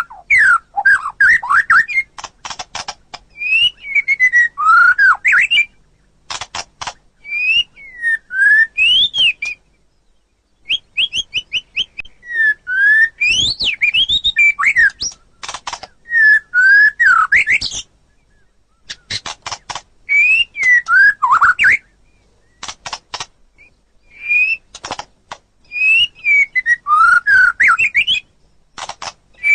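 White-rumped shama (murai batu) singing: varied phrases of clear whistles that swoop up and down, mixed with quick runs of dry clicking notes, with a few short pauses between phrases.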